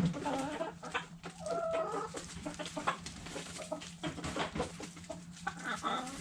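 Backyard hens clucking in short calls over a run of quick taps and clicks from pecking at food scraps.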